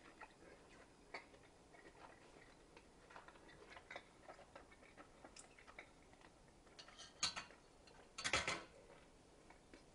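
Near silence with faint, scattered small mouth clicks and chewing as a bite of ribeye steak is eaten, with two slightly louder short sounds about seven and eight seconds in.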